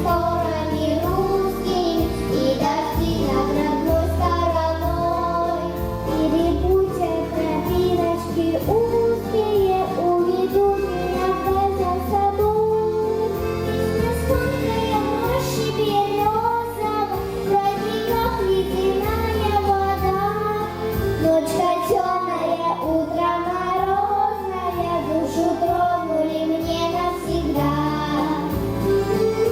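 Children singing a song over a recorded backing track with a steady bass line.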